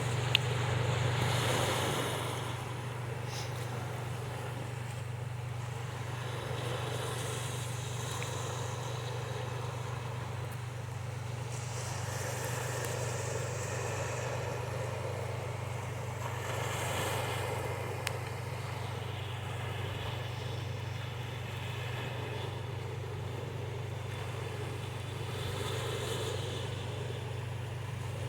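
Black Sea surf washing ashore in slow swells, over a steady low hum.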